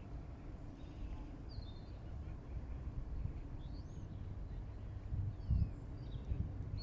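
A few faint, thin, high bird calls, short chirps and slurred notes, scattered over a steady low rumble of background noise.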